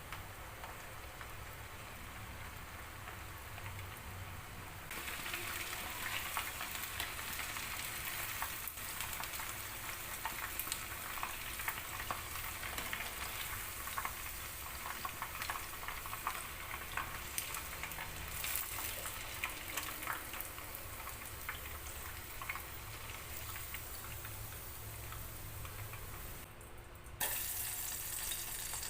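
Chicken frying in a pan: a steady sizzle with many small crackles. It gets louder about five seconds in, drops for a moment shortly before the end, then comes back louder.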